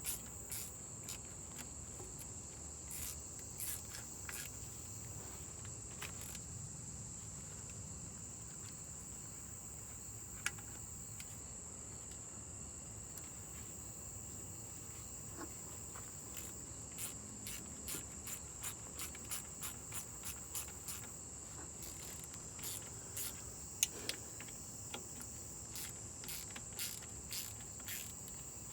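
Steady high-pitched cricket trilling, with short runs of sharp clicks from a hand socket ratchet as the transmission pan bolts are run in, busiest in the second half.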